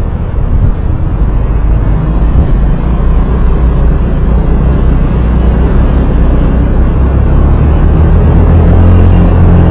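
Engine and road noise heard from on board a moving road vehicle: a loud, dense low rumble. Near the end the engine's hum grows steadier and a little louder.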